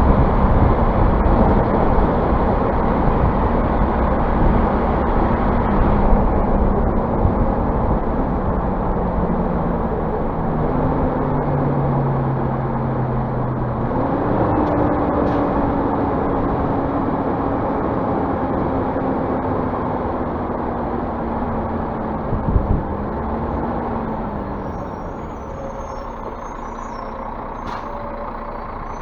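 Scania bus diesel engine running, its pitch rising and falling as it speeds up and slows, with a short knock near the end before it settles quieter.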